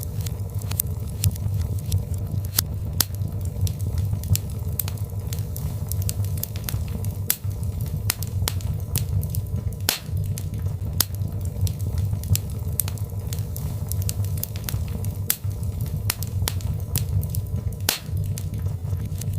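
Birch logs burning in a fireplace: a steady low rumble of flames with frequent, irregular sharp crackles and pops from the wood.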